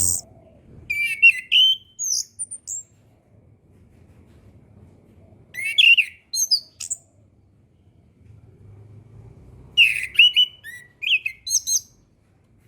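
Chestnut-capped thrush (anis kembang) singing in three short phrases of quick, varied whistled and twittering notes: about a second in, near the middle, and towards the end.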